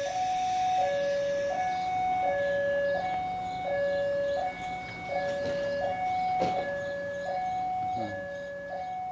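A two-tone electronic warning signal alternating steadily between a low and a higher note, each held about 0.7 s, with a single sharp knock about six and a half seconds in.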